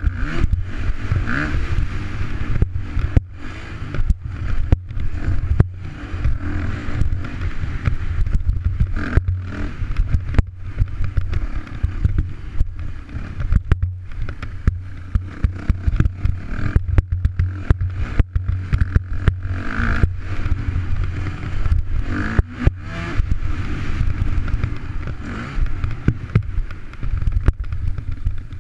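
Yamaha YZ250F four-stroke single-cylinder motocross bike being ridden, its engine running loud and rising and falling in revs, with frequent short breaks and rattles.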